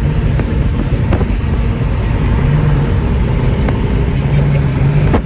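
Car engine and road noise while driving: a steady low rumble with the engine note shifting in and out.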